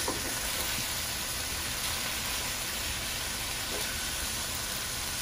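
Diced chicken and sliced sweet peppers sizzling steadily in hot olive oil in a large pan, an even frying hiss.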